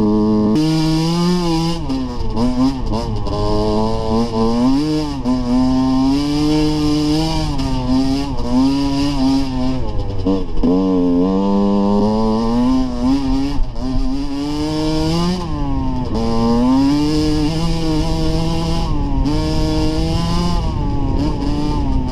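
Dirt bike engine revving up and down as it is ridden, its pitch rising and falling every second or two with the throttle.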